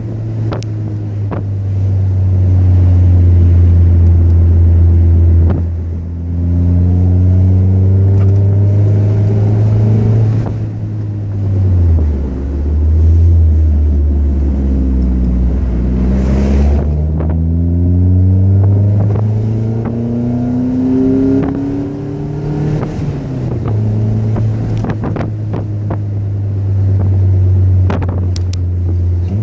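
Car engine and exhaust running with a steady low drone. In the middle the engine speed rises and falls several times, the pitch climbing and dropping, before settling back to the steady drone near the end.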